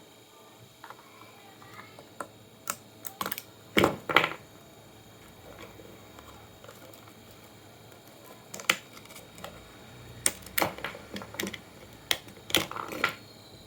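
Irregular clicks and knocks of a computer power supply's parts and tools being handled, coming in a few quick clusters.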